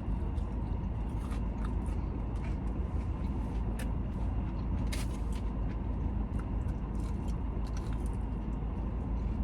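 A person biting into and chewing a fried croqueta, with a few short crunchy clicks and crackles, over a steady low hum.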